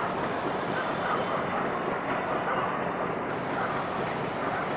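Passenger train coaches rolling along the meter-gauge track, a steady noise without a clear rhythm.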